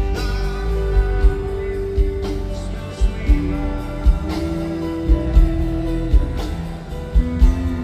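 Live rock band playing a slow passage: long held melodic notes, one to two seconds each, over a steady bass-drum beat.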